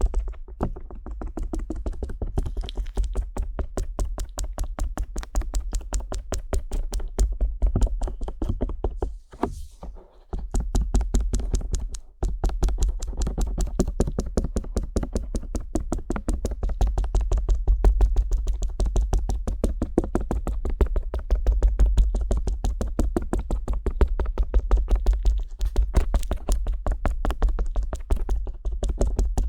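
Stainless-steel ear pick rapidly tapping and scraping on the ear of a 3Dio binaural microphone: a fast, close run of sharp taps with a deep thump under each. It stops briefly about nine seconds in and again near twelve seconds.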